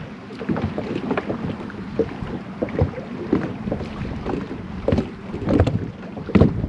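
Heavy wind buffeting the microphone on a small boat, with irregular knocks and water slaps against the hull about once or twice a second.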